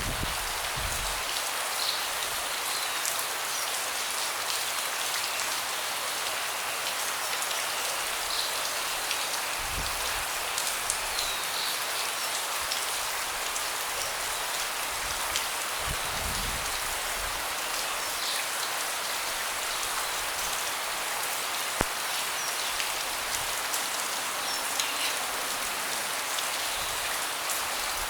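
Steady rain falling and pattering on a deck, with many small drop ticks, a few soft low rumbles and one sharper tick about two-thirds of the way through.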